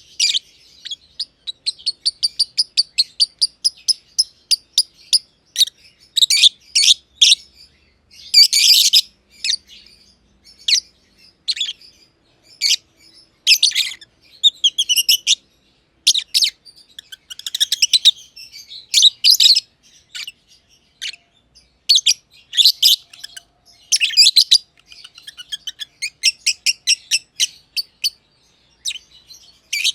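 Two masked (personata) lovebirds chirping: rapid runs of shrill, high chirps and squeaks, with brief pauses between bursts.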